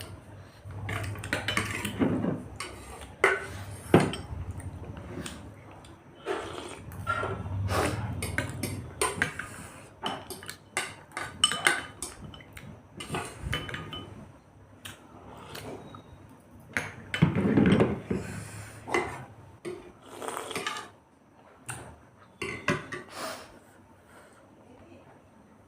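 Cutlery clicking and scraping against plates, in irregular taps through the whole stretch, with a few louder bursts of eating noise.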